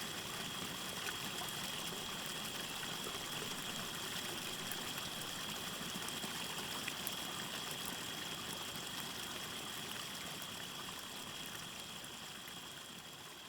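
A small stream trickling steadily, with a steady high chirring of crickets and sparse light crackles of a campfire; the whole mix starts fading out near the end.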